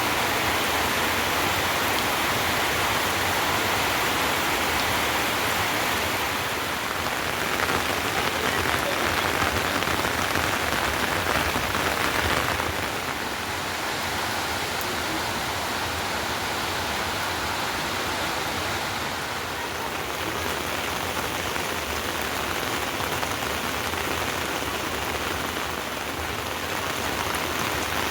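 Heavy rain falling steadily, a little louder for the first twelve seconds or so, then slightly softer.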